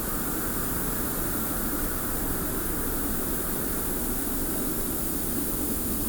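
Steady desert wind with a constant hiss of blowing sand, a low rumble under it.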